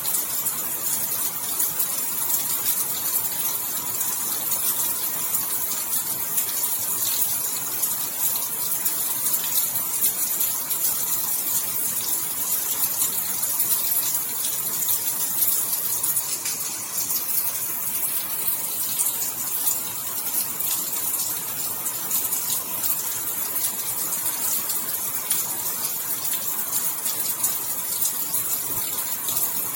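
Steady rain falling: an even hiss laced with many fine drop ticks, unchanging throughout.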